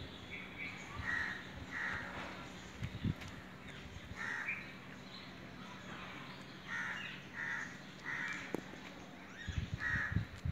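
Birds calling outdoors, short calls repeated in groups of two or three. A few low thumps come near the end.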